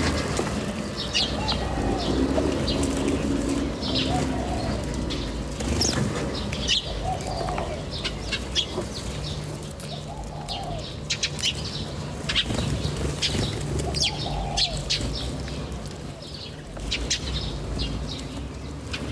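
Birds chirping in short, high, scattered notes, with a lower arched call repeating every two or three seconds under them.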